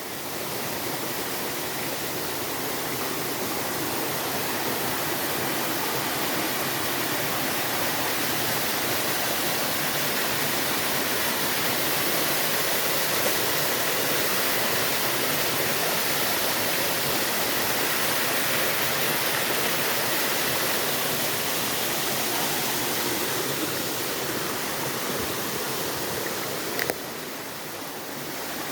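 Water of a small stream cascade rushing steadily. It grows a little louder toward the middle and eases off near the end.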